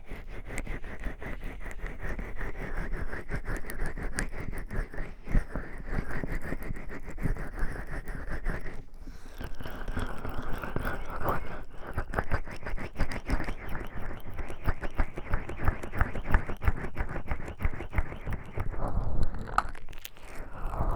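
Oiled hands rubbing and massaging a 3Dio binaural microphone's ears, a steady run of slick, crackling rubbing and scratching with a brief pause about nine seconds in.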